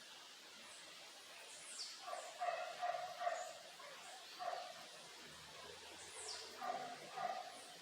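A dog barking in short bursts, several barks in a row about two seconds in, one near the middle and two more near the end, with birds chirping and two high calls that fall in pitch.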